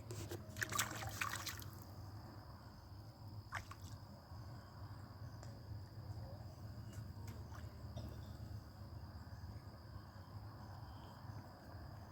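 Water splashing and dripping from a just-caught northern pike as it is brought out of the lake, loudest in the first second and a half, then faint drips and light clicks over a steady low hum.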